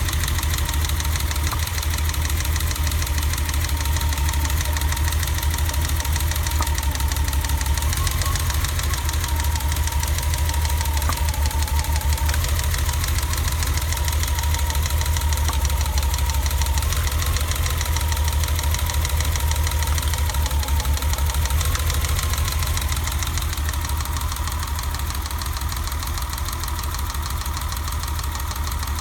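BMW E30 engine idling with a misfire that persists after a new distributor cap and rotor.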